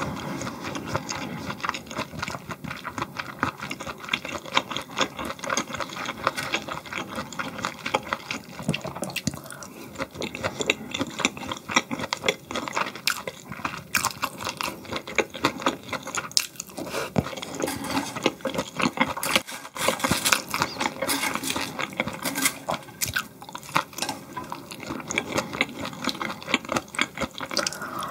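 Close-miked eating sounds: steady chewing with many small, wet clicks and smacks, going on without a break.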